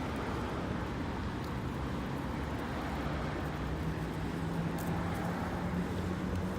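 Steady low engine hum of motor traffic, with a rumbling noise underneath that holds at one level throughout.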